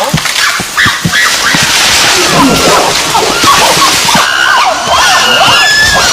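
Several chimpanzees calling and screaming over one another: many overlapping cries that rise and fall in pitch.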